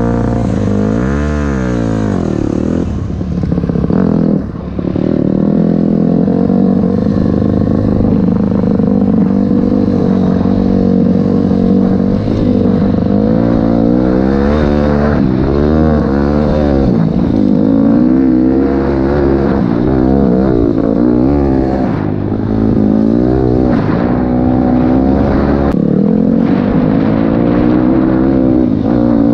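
Honda CRF250L dirt bike engine running under way, its note sweeping up and down again and again as the rider accelerates, shifts and backs off.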